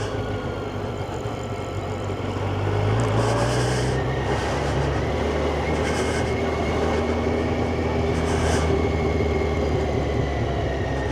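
Yamaha FZ1's inline-four engine running as the motorcycle moves through slow traffic. The revs rise about three seconds in and then hold steady, with several brief bursts of hiss.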